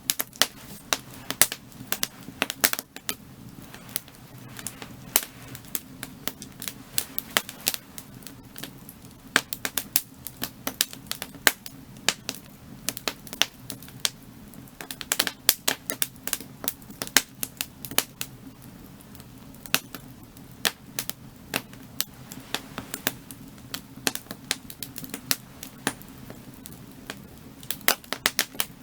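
Burning firewood crackling and popping: irregular sharp snaps, several a second, over a low steady rumble.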